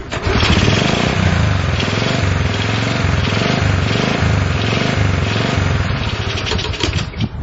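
Honda CL70 single-cylinder four-stroke engine running, revving up and down as the throttle is twisted to keep it going. It won't settle into an idle, and the throttle gives no steady control, which the owner puts down to the carburetor.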